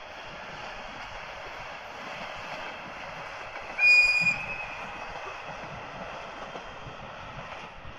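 Train on the Akita Nairiku line running past with a steady rumble, and a short, loud, high-pitched squeal about four seconds in.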